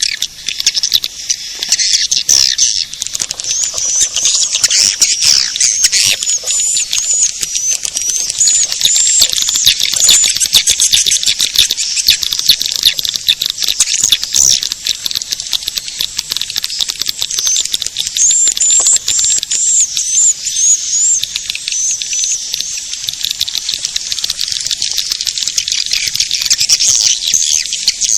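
Swiftlet caller recording: a continuous, dense chatter of rapid high-pitched twittering chirps and clicks from edible-nest swiftlets, the lure sound played to attract them to a nesting house.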